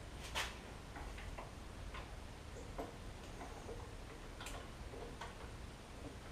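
Scattered light clicks and taps of hands handling tools and tape at close range, irregular rather than rhythmic, the loudest about half a second in.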